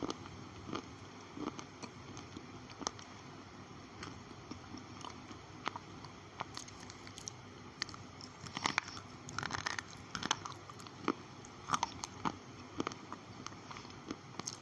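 Slate pencils being bitten and chewed, with irregular sharp crunches throughout and a denser run of them about two-thirds of the way through.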